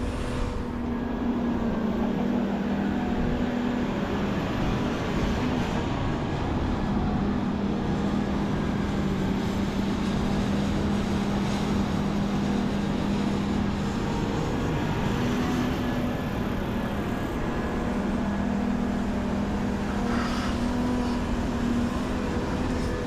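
Diesel engines of heavy earthmoving equipment running steadily as a large excavator digs clay and loads haul trucks. The engine drone steps up and down in pitch several times as the engines load and ease.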